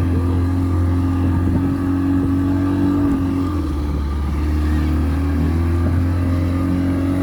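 Motorboat engine running at a steady speed, a constant low drone.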